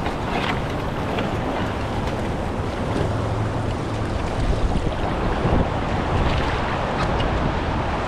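River water rushing and splashing around a kayak, with wind buffeting the microphone.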